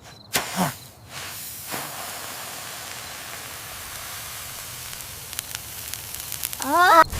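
A steady hiss, with two sharp hits about half a second in and a short pitched cry near the end.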